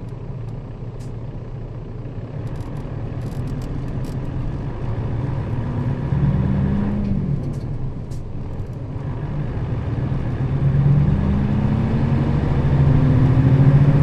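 Nissan Diesel KL-RA552RBN bus's diesel engine heard from inside the bus, pulling hard as the bus gathers speed. The engine note climbs, dips at a gear change about seven seconds in, then climbs and grows louder again.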